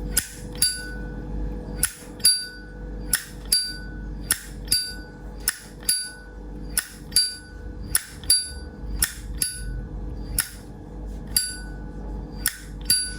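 A vintage 1976 Zippo lighter's lid flicked open and snapped shut over and over, about once a second. Each time there is a pair of sharp metal clicks with a short bright ring: the characteristic Zippo 'sound', which the seller calls good.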